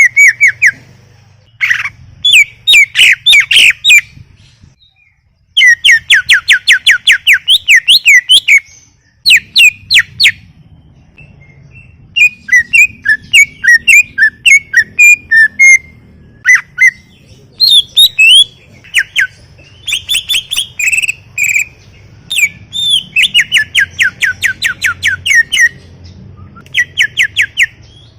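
Green leafbird (cucak ijo) singing energetically in bursts of rapid, sweeping chirps and trills, phrases of one to three seconds broken by short pauses.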